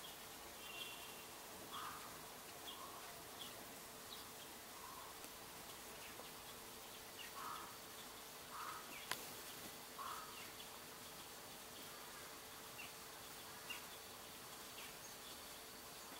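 Faint, short high-pitched calls of bramblings, scattered every second or so, over a steady faint hum. A single sharp click about nine seconds in is the loudest sound.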